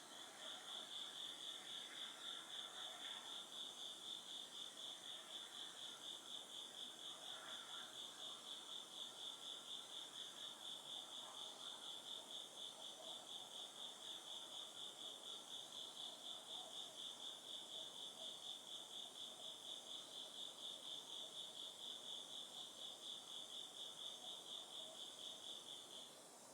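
An autumn singing insect calling without a break in a fast, even pulsed trill on one high pitch, stopping suddenly near the end. Fainter insect calls sound lower down.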